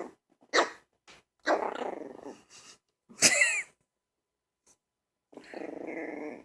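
Puppy growling and barking: a couple of short barks, a rough growl, one high yelping bark about three seconds in, and a longer steady growl near the end.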